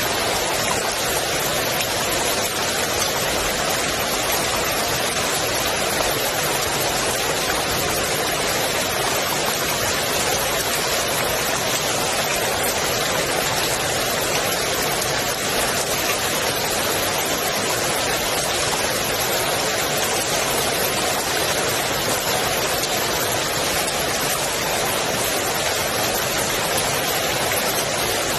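Rain falling on the water of a swimming pool: a steady, even hiss of many drops with no change in strength.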